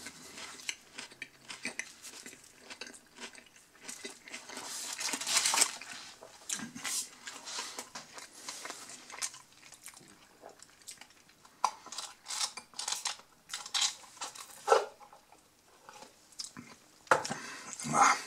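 A person chewing a mouthful of a sub sandwich close up: irregular chewing and crunching with many short clicks, loudest about five seconds in, with small knocks as a paper drink cup is handled.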